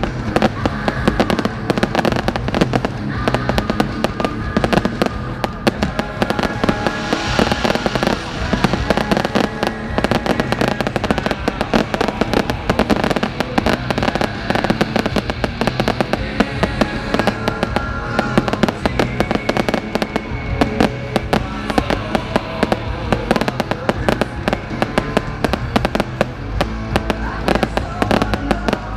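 Fireworks display going off in a dense run of rapid bangs and crackles, with music playing over it.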